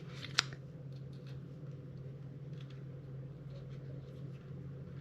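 Small plastic and metal RC car parts being handled and fitted by hand, with one sharp click shortly after the start and faint scattered ticks and rustles after it, over a steady low hum.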